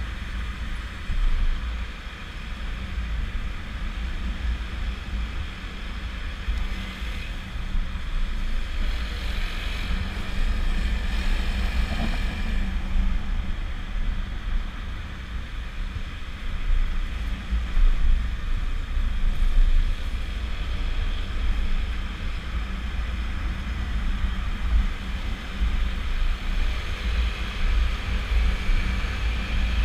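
Honda PCX scooter riding steadily, its single-cylinder engine and the road noise heard under heavy wind buffeting on the microphone.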